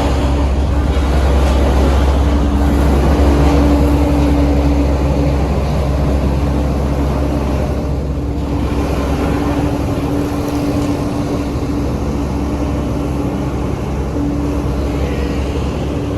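Heavy diesel road-construction machinery running steadily: a deep engine rumble with a steady hum above it.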